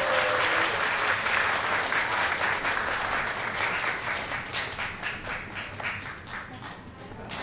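Audience applauding in a concert hall, a dense patter of many hands clapping that thins and fades out over the last couple of seconds.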